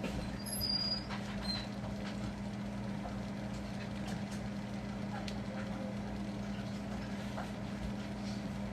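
Eggs and stir-fry sizzling in a frying pan over a steady low hum, with a few faint clicks.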